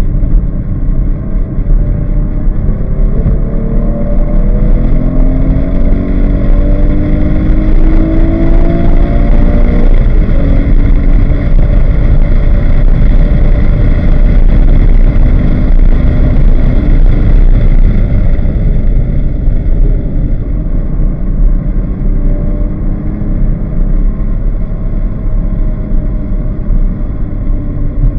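Porsche 911 GT3's flat-six engine heard from inside the cabin at full throttle, rising in pitch through third gear, shifting up to fourth about ten seconds in and holding high revs. About two-thirds of the way through it drops off with falling pitch as the car brakes for a slow corner, then runs at lower revs under steady road and wind noise.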